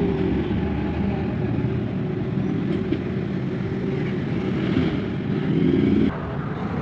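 Two-stroke chainsaw engine running steadily, dropping suddenly in level about six seconds in.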